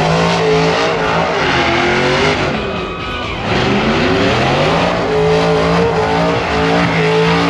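High-powered V8 engine of a burnout car revving up and held at high rpm, with tyre noise under it. It eases off about two and a half seconds in, then climbs and holds again.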